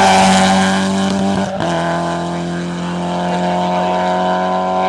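Hill climb racing car's engine at high revs under full throttle, with a quick upshift about a second and a half in, the pitch dropping and then pulling on steadily.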